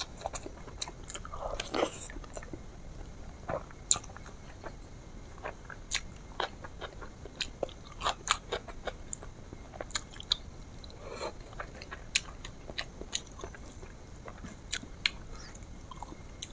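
A person eating close to the microphone: chewing, with many irregular sharp clicks and smacks.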